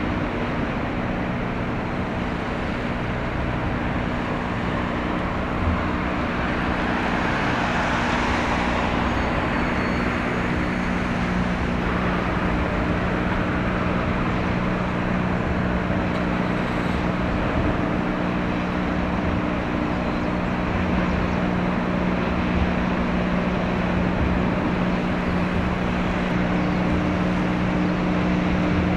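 Steady low drone of a passing container ship's diesel engine: several constant hum tones over a wash of outdoor noise. A swell of noise rises and falls about eight seconds in.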